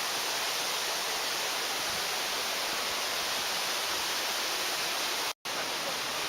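Steady rushing of a mountain stream's water over rocks, an even hiss. It breaks off for an instant about five seconds in, then goes on the same.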